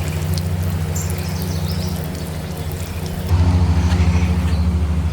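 Pirozhki frying in bubbling oil in a pan over a campfire, sizzling and crackling, over a steady low engine-like hum. The sound jumps louder about three seconds in.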